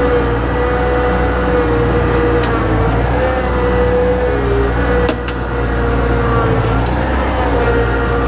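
Bobcat 853H skid steer's diesel engine running steadily with a whine that wavers slightly in pitch. A few sharp clicks come through, about two and a half and five seconds in.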